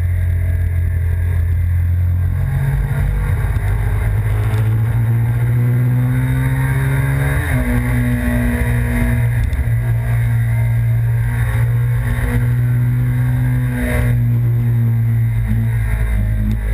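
2005 Suzuki SV1000S's 996 cc V-twin engine pulling hard under acceleration, its note climbing and then dropping sharply at an upshift about seven and a half seconds in, with short dips in pitch near nine and a half and fourteen seconds. Wind rushes over the tank-mounted microphone.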